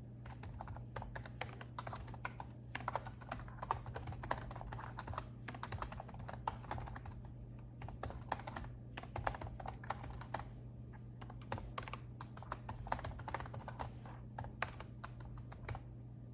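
Typing on a laptop keyboard: quick runs of key clicks in bursts with short pauses, stopping shortly before the end, over a faint low steady hum.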